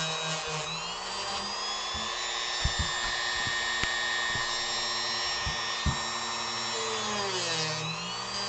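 Dremel rotary tool running as it carves wood, a high whine that drops and recovers in pitch near the start and again near the end as the bit bears on the wood. A few light knocks come in the middle.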